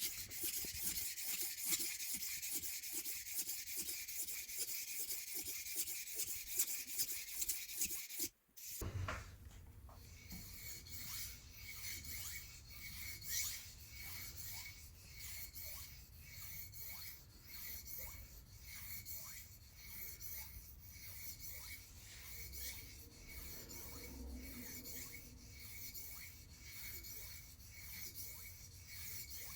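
Knife blade being stroked repeatedly against a sharpener, a dry scraping rasp stroke after stroke. The sound cuts out briefly about eight seconds in, then the strokes carry on quieter over a low hum.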